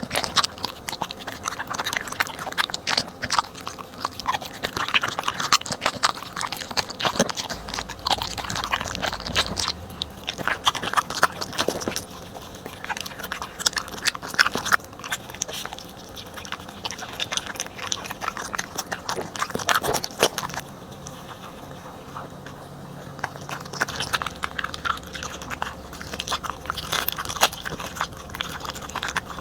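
Corgi chewing and crunching through raw food, a long irregular run of wet bites, smacks and crunches, with a slightly quieter stretch a little after the middle.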